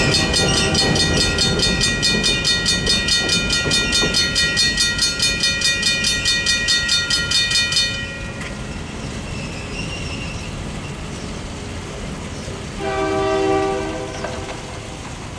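Modern Industries mechanical crossing bells ringing rapidly over the low rumble of a passing freight train, stopping abruptly about halfway through. Near the end a single horn blast sounds for about a second.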